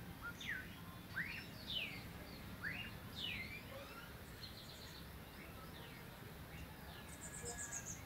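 Birds singing and calling: a run of sharp whistled notes sweeping up and down in pitch over the first few seconds, then short, fast-pulsed high notes around the middle and again near the end.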